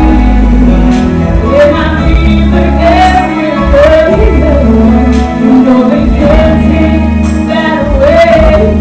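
Female singer singing a song over instrumental accompaniment with a steady bass, holding long notes with vibrato.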